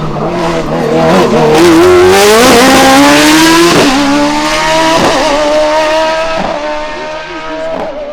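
Hillclimb race car accelerating hard up through the gears, its engine pitch climbing and then dropping at each of about four quick upshifts. It is loudest early on as it passes, then fades as it pulls away.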